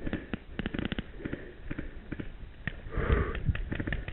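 Paintball markers firing around the field in irregular pops, with the player's breathing close to the mic, loudest about three seconds in.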